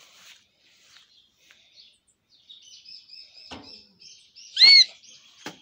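Birds chirping, with a steady high trill from about halfway and one short, loud, arching call near the end. Two light knocks come in between, about a second apart.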